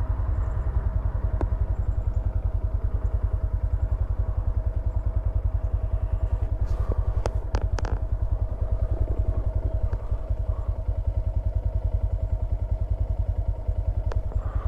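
Honda Grom 125's single-cylinder four-stroke engine idling steadily, with a few light clicks about halfway through.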